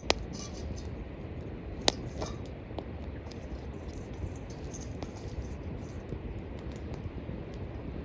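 Small campfire in a cooking bowl crackling, with scattered small ticks and two sharp pops, one right at the start and one about two seconds in.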